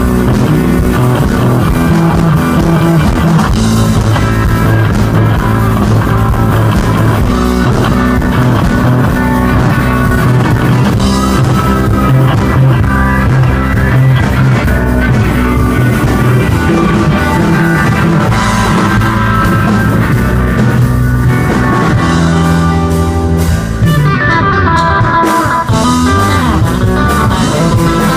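Live indie rock band playing: electric guitars over bass and drum kit, loud and dense, thinning briefly to mostly guitar a little before the end.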